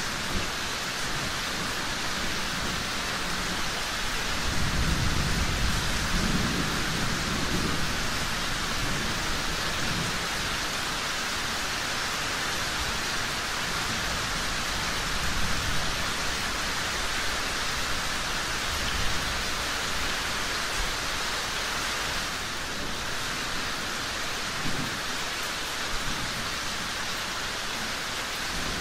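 Steady rain falling, an even hiss throughout, with a low rolling rumble of thunder about four to eight seconds in and a fainter one near the end. A few brief sharp pops from a crackling fireplace stand out over the rain.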